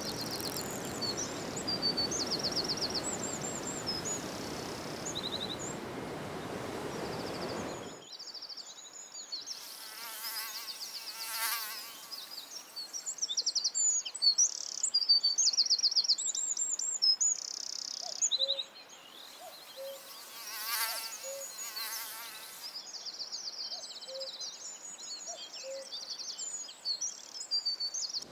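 Several songbirds singing, with high chirps and trills throughout. For the first third a steady rushing noise lies under the song and cuts off abruptly. Twice an insect buzzes past, its buzz rising and falling.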